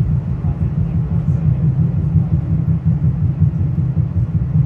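Commuter train running along the track, heard from inside the passenger car: a steady, loud low rumble from the wheels and running gear.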